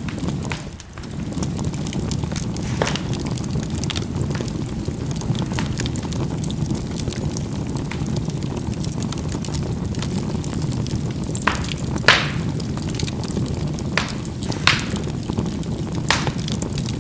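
Charcoal burning in a fireplace: a steady low rumble of the fire with scattered sharp pops and crackles as the charcoal bursts, the loudest pop about twelve seconds in.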